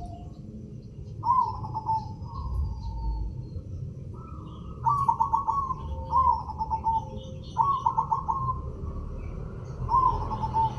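Zebra dove (perkutut) cooing, several song phrases each made of a quick stuttering run of notes ending in a drawn-out note. Faint higher chirps from other small birds sound in between.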